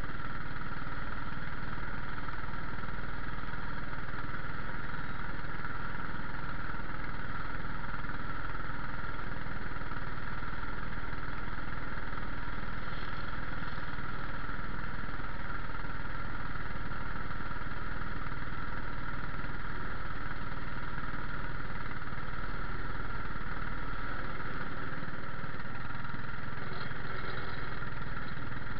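Small cyclecar engine idling steadily while the car waits in line, with no revving and no change in speed.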